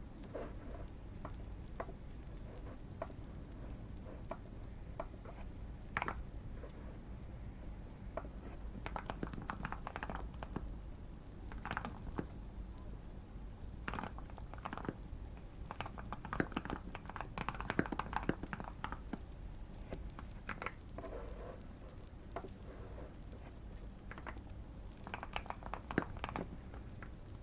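Typing on a modded Keychron Q1 mechanical keyboard: bursts of quick key clicks with pauses between, busiest in the middle and again near the end, over a faint crackling fire.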